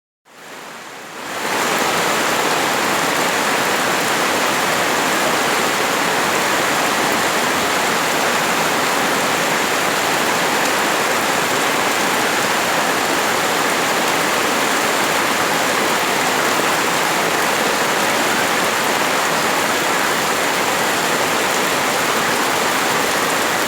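Heavy rain pouring steadily, a loud, even hiss that fades in over the first second or so.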